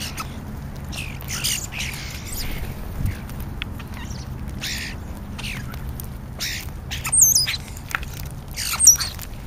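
European starlings calling: a run of short scratchy chattering calls, with two high wavering whistles in the last few seconds.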